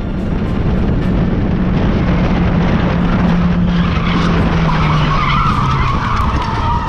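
A car engine running with a steady low hum that slowly falls in pitch; about four seconds in, tyres begin to squeal in a rough, wavering skid.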